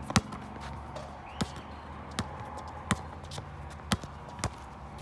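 A basketball bouncing on a concrete court as a player dribbles: about six bounces at uneven spacing, the first the loudest.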